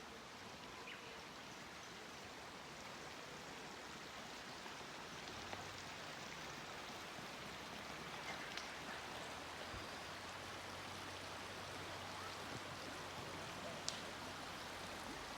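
Steady rush of a stream flowing, heard faintly, with a few small ticks over it.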